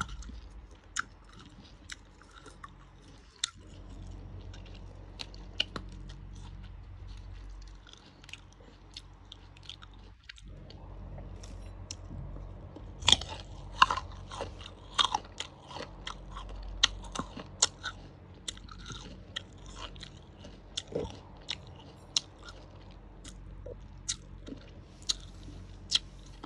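Close-up eating of fresh green jujubes: crisp bites and chewing, a string of sharp crunches, coming thickest about halfway through.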